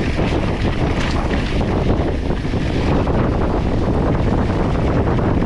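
Wind rushing over the microphone on a fast mountain-bike descent, with the tyres rolling and the bike rattling over a rough dirt trail; steady and loud throughout.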